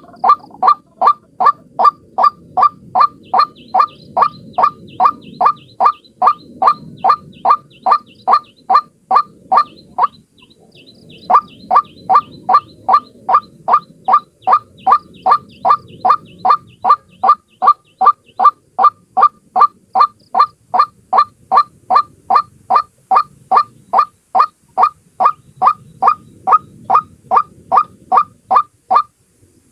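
A single white-breasted waterhen (ruak-ruak) calling: a fast, monotonous series of short, loud notes, about two and a half a second, broken once by a pause of about a second near the middle and stopping just before the end. This is the repetitive call used as a lure to draw waterhens in.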